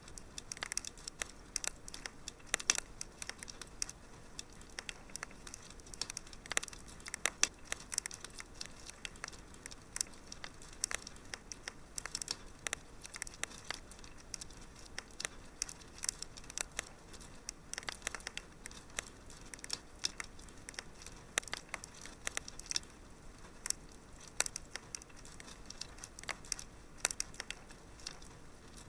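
Wood fire crackling in a fireplace: irregular sharp pops and snaps over a soft hiss of burning.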